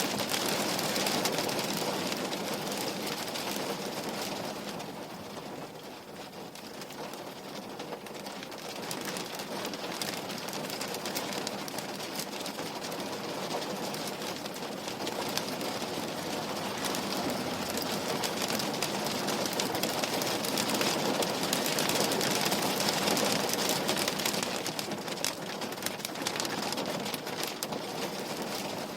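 Rain pattering on window glass: a dense hiss of many small drop ticks. It eases off about six seconds in and grows heavier again later on.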